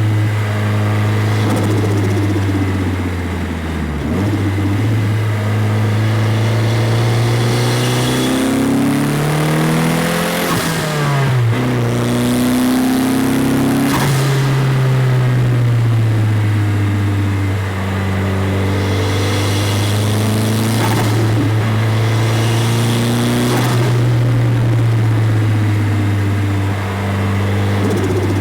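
Nissan 200SX S14a's turbocharged SR20DET four-cylinder, through an Invidia GT350 exhaust, revving up and dropping back several times. Short bursts of hiss come as the revs fall: turbo flutter and blow-off.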